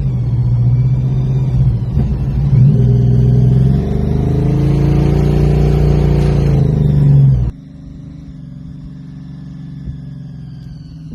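1969 Plymouth Road Runner's V8 engine being driven hard, its pitch climbing and falling as it revs up and eases off. About seven and a half seconds in, the sound drops suddenly to a much quieter, steady engine run.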